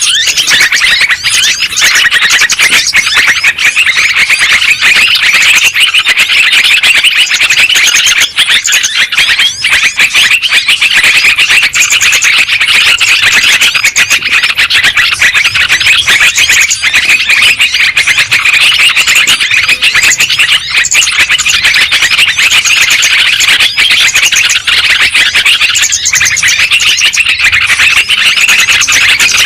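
Yellow-vented bulbuls (trucukan) chattering and calling in a dense, unbroken stream of overlapping notes, a lure song meant to draw other bulbuls in.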